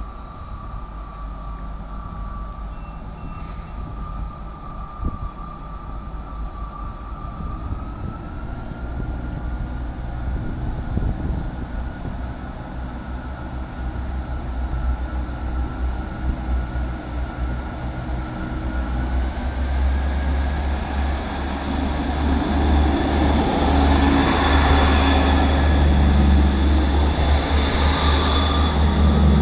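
Class 158 diesel multiple unit's engines running as it pulls out of the station, with a steady whine that steps up slightly in pitch about eight seconds in. A deep rumble and the overall loudness build over the last ten seconds as it powers away.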